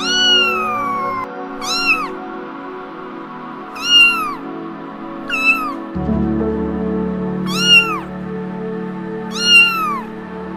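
A kitten meowing six times, each call high and arching up then down, about every one and a half to two seconds, over soft background music.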